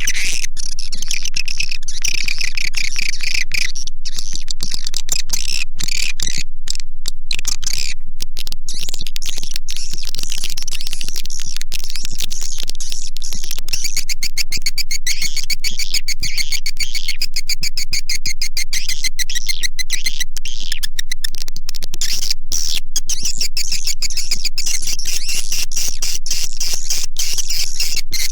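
Swiftlet lure call: a loud, unbroken stream of rapid twittering chirps and ticks from swiftlets, over a steady low hum.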